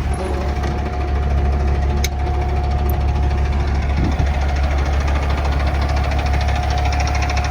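The natural-gas engine of a 2014 Kenworth T800 CNG semi truck running steadily at an even speed, with a sharp click about two seconds in.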